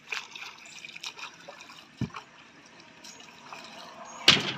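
Water splashing and trickling with small irregular splashes, a dull knock about two seconds in and a louder sharp splash or thump near the end.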